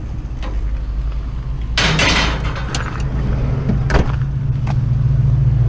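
Truck engine running steadily, its hum growing louder toward the end. About two seconds in there is a loud rustling clatter, followed by a few sharp knocks.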